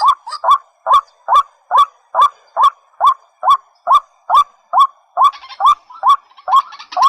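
Rail-family waterbird calling: a regular series of short, hooked calls, a little over two a second, each bending up in pitch and then dropping. A buzzy noise joins in near the end.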